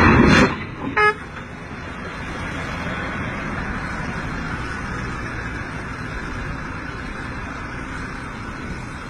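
A loud, short noisy burst right at the start, a brief vehicle horn toot about a second in, then steady vehicle engine and road noise.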